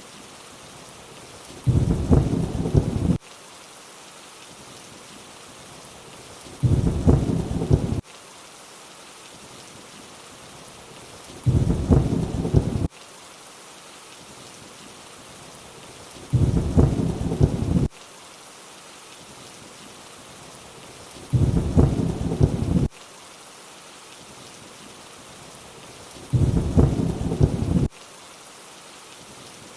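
Steady rain hiss with a low thunder rumble about every five seconds, six in all. Each rumble lasts about a second and a half and cuts off abruptly, the same short thunder clip repeating on a loop over the rain.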